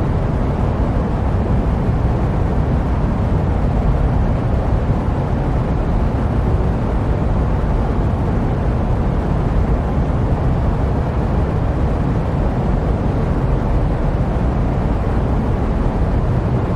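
Steady jet-airliner white noise: an even, deep rumble with little hiss in the highs, unchanging throughout.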